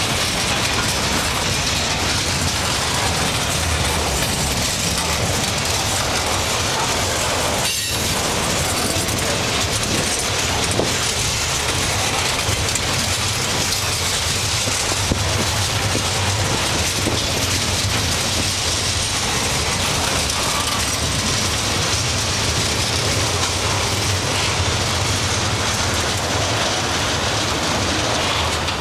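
Freight cars of a long mixed freight train rolling past close by: the steady rumble and clatter of steel wheels on the rails as gondolas and then autoracks go by.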